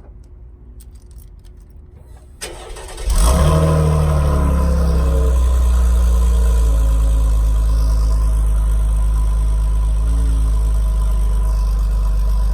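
2017 Chevrolet Camaro's 3.6-litre V6 being started through its stock muffler. The starter cranks about two and a half seconds in, the engine catches with a brief flare, then settles into a steady idle.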